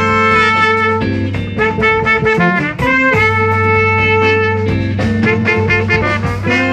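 Live instrumental jazz from a quintet: trumpet and saxophone holding long notes over a steady bass line, with guitar and drums.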